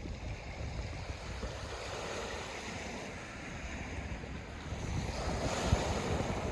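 Sea waves washing on the shore, with wind buffeting the microphone; a wave surges in loudest about five seconds in.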